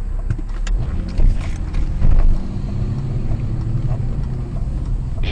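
A car engine running, a steady low rumble with two short louder swells about a second and two seconds in.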